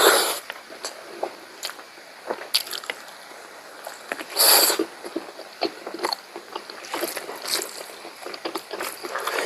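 Mouth sounds of a person eating pork curry: wet chewing and smacking with scattered small clicks, and a louder noisy burst about four and a half seconds in.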